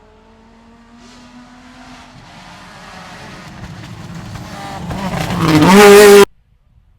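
Two-wheel-drive rally car approaching at speed, its engine growing steadily louder, the revs dipping and climbing again as it comes up close; the sound cuts off suddenly at its loudest.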